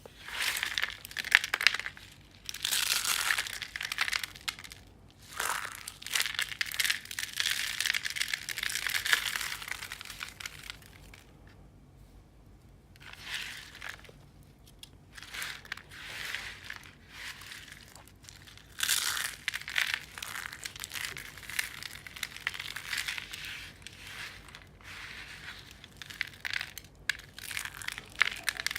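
Dry soap being crushed and crumbled, crisp crunching and crackling in repeated bursts with short pauses between them.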